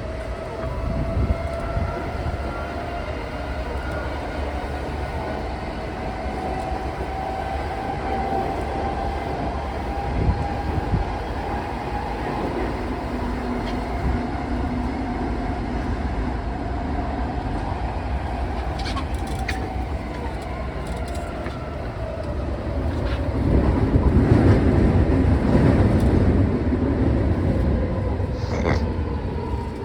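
Odakyu 4000 series electric train running on the Chiyoda subway line: a steady rumble of wheels on rail with a whine from the traction motors whose pitch drifts slowly up and down. The rumble grows louder for a few seconds about three-quarters of the way through.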